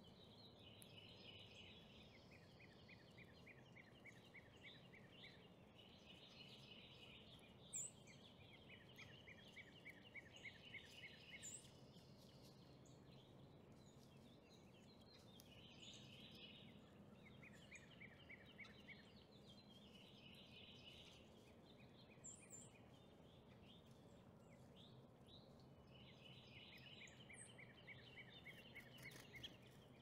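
Near silence with faint birdsong: trills of rapid repeated notes every few seconds, with a few short high chirps.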